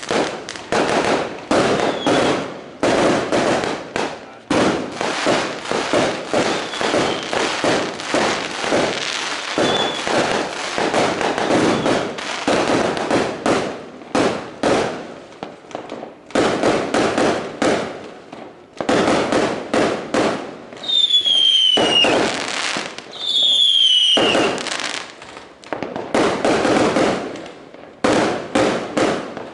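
Aerial fireworks going off overhead in rapid, near-continuous bangs and crackles, with a short lull partway through. Twice, late on, a falling whistle cuts through the bangs.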